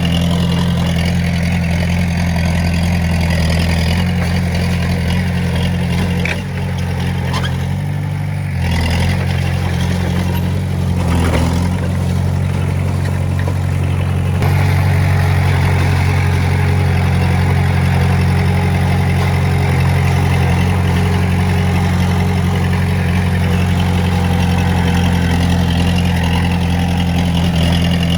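Heavy diesel machinery engine running steadily with a deep, even hum, dipping briefly about six seconds in and getting a little louder about halfway through.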